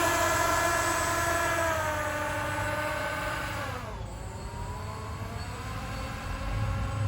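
RC airboat's electric motor and air propeller running under throttle with a pitched whine. The whine holds, then falls in pitch to a low point about four seconds in as the throttle is eased, and rises again slightly.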